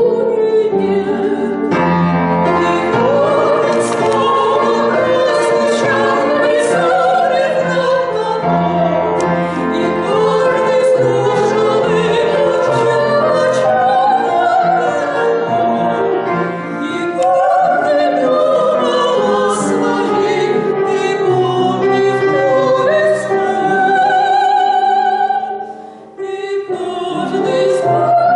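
Women singing a slow waltz-time song in a trained, operatic style with piano accompaniment, the voices held with vibrato. The music dips briefly near the end, at a break between phrases.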